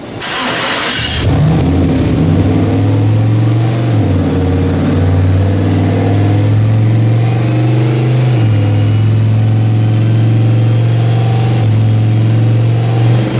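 Turbocharged 6.0-litre LS V8 in a Fox-body Mustang running loud under throttle at a fairly steady engine speed. A rush of noise comes in the first second, and a faint rising turbo whistle comes in over the second half.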